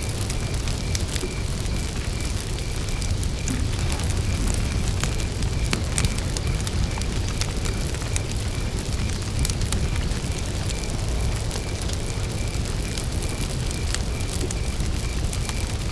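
Wood campfire burning, with frequent sharp crackles and pops over a steady low rumble. A cricket chirps in an even, regular pulse throughout.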